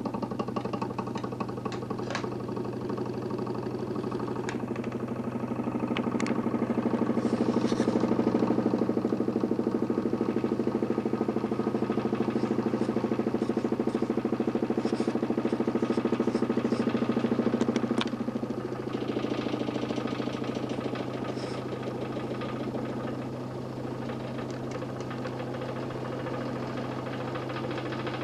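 DC motor spinning a 40 cm plywood Nipkow disc in a homemade mechanical television: a steady mechanical hum with a low drone. It grows louder several seconds in and drops back suddenly about two-thirds of the way through, with a few faint ticks.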